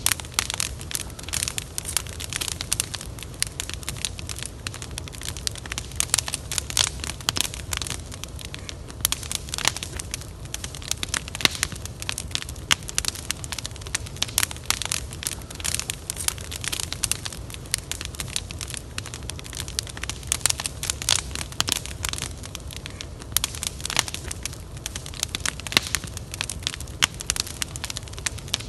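Wood fire burning with dense, irregular crackling and snapping, over a low steady rumble.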